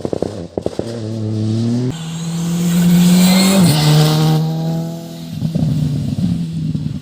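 Rally car engine accelerating hard, its note climbing and then stepping down at a gear change about two seconds in, loudest as the car passes close, with the pitch falling as it goes by. Rapid popping and crackling from the exhaust near the start and again about five and a half seconds in.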